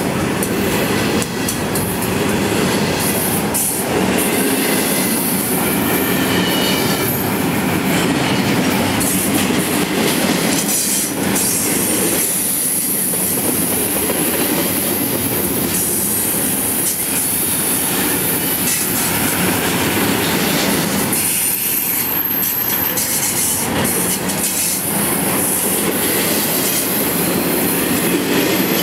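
Double-stack intermodal freight train's well cars rolling past at close range: a steady, loud rumble and clatter of steel wheels on rail, with a high wheel squeal that swells and fades.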